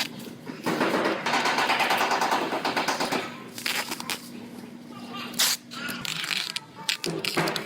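A body-shop tool giving a rapid run of sharp crackling impacts for about two and a half seconds, then a few shorter bursts, over a steady faint hum.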